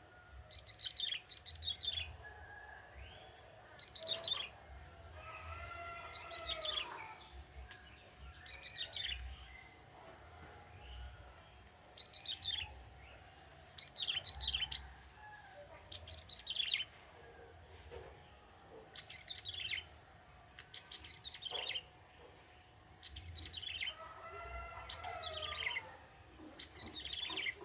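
Young male bar-winged prinia (ciblek) singing: short high phrases of quickly falling chirps, repeated every one to three seconds, with lower warbling notes in between.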